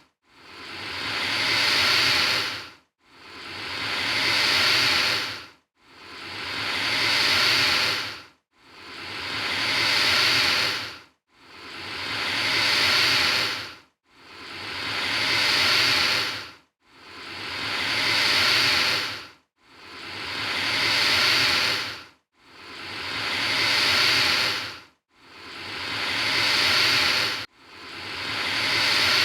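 Alligator hissing: a breathy hiss roughly every three seconds, each swelling up and then cutting off into a short silence. The same hiss repeats identically about ten times, as a loop.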